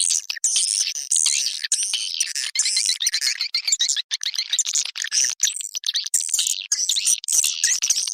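Recorded calls of edible-nest swiftlets, a dense, unbroken chatter of rapid high chirps and twitters. It is a swiftlet-house lure call track.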